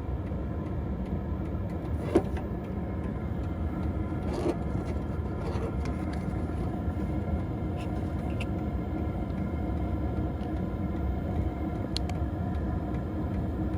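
A Maxspeedingrods 5 kW diesel heater running: a steady low rumble with a few faint isolated clicks.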